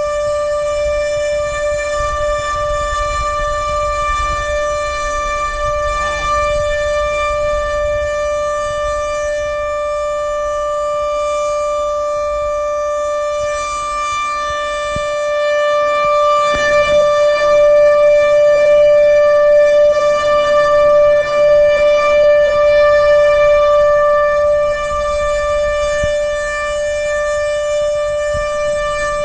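Outdoor warning siren sounding a steady, unwavering tone for a tornado drill. It grows louder about halfway through and eases back near the end, with a low wind rumble underneath.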